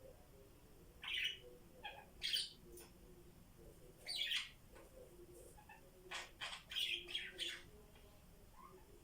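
Pet parrots giving short, scattered chirps and squawks, in small clusters with pauses of a second or two between them.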